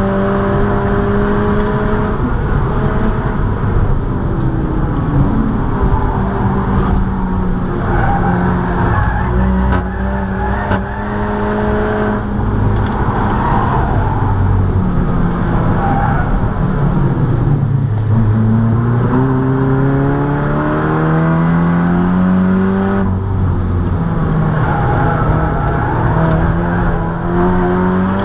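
Seat Leon Cupra 280's turbocharged 2.0-litre four-cylinder engine heard from inside the cabin under hard driving, with road and wind noise. The engine note mostly holds high, falls as the car brakes and shifts down, and about two-thirds of the way through climbs steadily from a low pitch as the car accelerates again.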